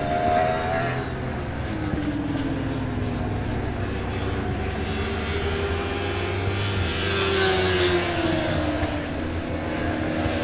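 Superbike racing motorcycle engines running at speed on track. The engine pitch falls slowly over the first few seconds, then rises and falls again in the second half, as bikes go by.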